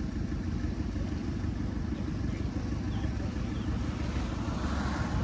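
Diesel engine of heavy earthmoving machinery running steadily, a low even rumble.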